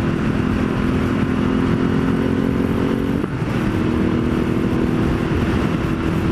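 Ducati Multistrada 1200S L-twin running through a full Termignoni exhaust with its catalytic converter and baffle removed, at a steady cruise under rushing wind noise. About three seconds in the engine note briefly breaks and then settles at a slightly different pitch, like a gear change.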